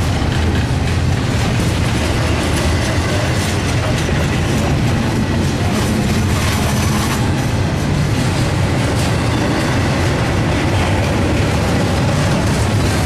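Double-stack intermodal well cars rolling past at speed, close by: a loud, steady rumble and clatter of steel wheels on the rails.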